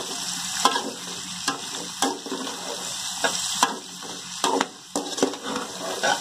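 Par-boiled elephant foot yam pieces sizzling in oil in a kadai while a metal spoon stirs them. The spoon scrapes against the pan roughly once a second over a steady frying hiss.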